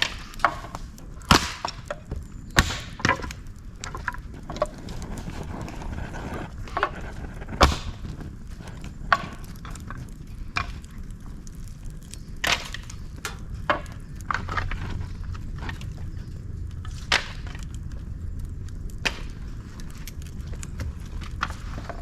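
Dry bamboo, twigs and leaves burning in a fire pit stand, crackling with irregular sharp pops and snaps, a few of them much louder than the rest.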